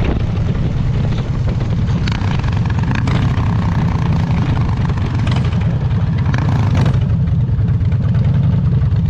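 Harley-Davidson Dyna's V-twin engine running with a steady low rumble.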